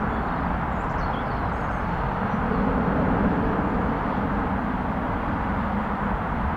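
Airbus A300-600R freighter's twin jet engines at climb power, a steady rumbling noise as the aircraft climbs away after takeoff.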